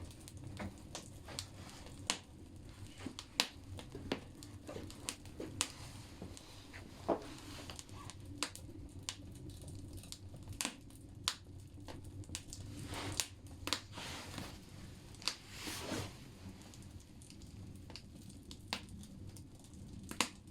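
Birch-free firewood logs burning in a bathhouse wood stove, crackling with irregular sharp pops of varying loudness over a low steady rumble of the fire.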